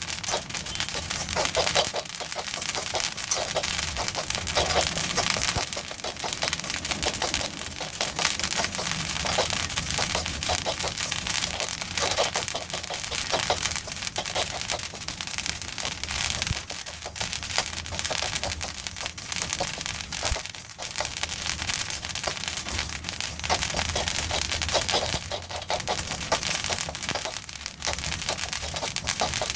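Black sesame seeds popping and crackling as they dry-roast in a pan: a dense, continuous patter of many small pops, the sign that the seeds are roasting through.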